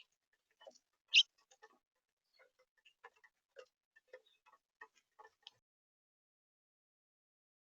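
Irregular light ticks and clicks, one much louder about a second in, thinning out and stopping a little past halfway.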